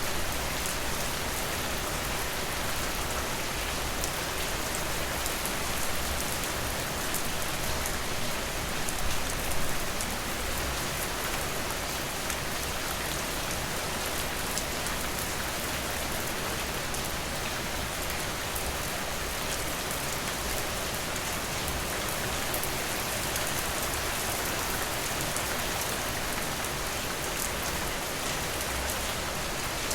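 Steady rain falling, a dense hiss with many fine drop ticks, a little louder for a moment about nine seconds in.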